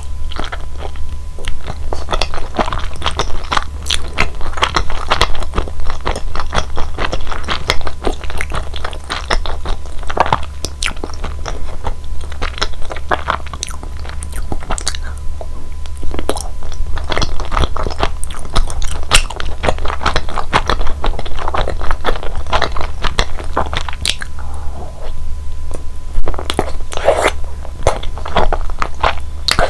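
Close-miked chewing and biting of mitarashi dango, chewy glutinous-rice dumplings in a sticky soy-sugar glaze, with many small wet mouth clicks over a steady low hum.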